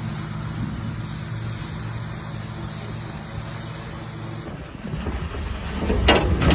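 A steady low motor drone, which cuts off abruptly about four and a half seconds in. It is followed near the end by a growing series of knocks and clattering impacts.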